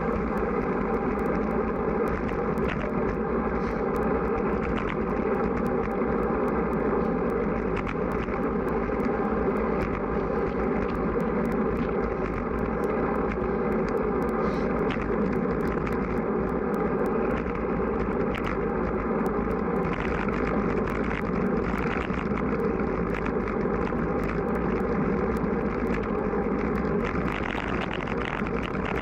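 Steady rushing noise of strong wind buffeting the microphone of a camera riding on a road bike in motion, with no let-up.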